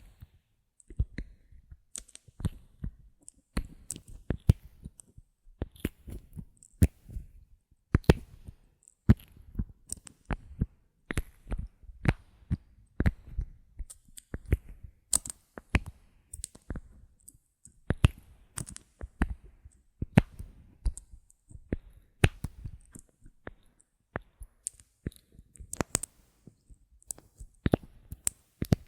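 Bottle caps handled close to the microphone, giving a run of irregular sharp clicks and taps, several a second, with soft low thumps between them.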